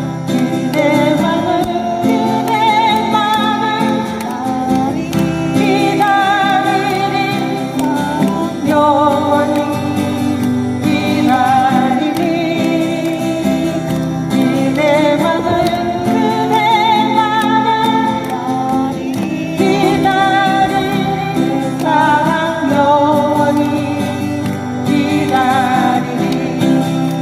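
Singing with strummed acoustic guitar accompaniment: a song performed live.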